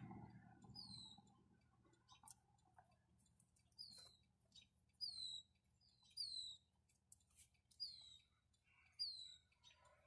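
A bird calling faintly: short, high chirps that each drop in pitch, about seven of them spaced a second or so apart, over near silence.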